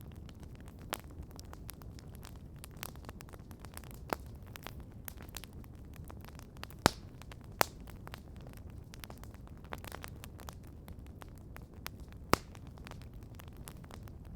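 Outdoor wood campfire crackling steadily over a low rumble, with frequent small clicks and three loud sharp pops, two close together about halfway through and one near the end.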